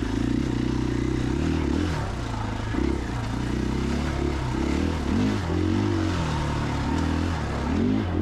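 2021 KTM 500 EXC-F single-cylinder four-stroke dirt bike engine running under way, its pitch rising and falling again and again as the throttle is opened and closed over rough trail.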